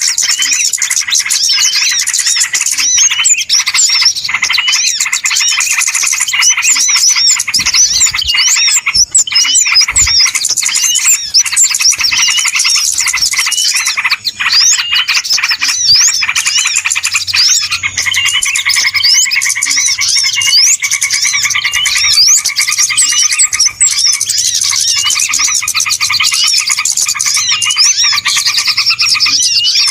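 Dense, continuous chorus of many small birds chirping and twittering over one another: a noisy mixed-bird lure recording of the kind played to draw wild birds in for catching. A little past halfway a lower, steadier call joins underneath the high chirps.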